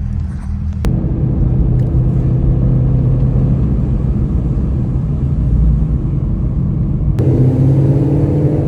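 Car engine droning steadily with road noise while cruising. It changes abruptly about a second in, and again near the end, where a higher engine note comes in.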